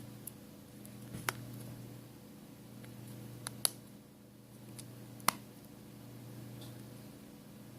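A few short, sharp clicks and taps of small parts being handled during an iPhone 5s reassembly, over a steady low hum.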